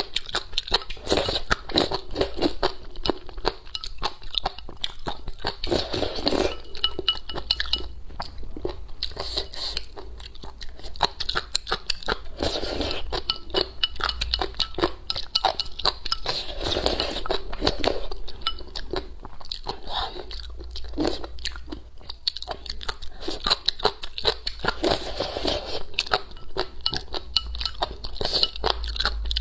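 A person chewing crisp pickled shredded papaya strips with mouthfuls of rice porridge: a rapid, continuous run of crunches and chewing.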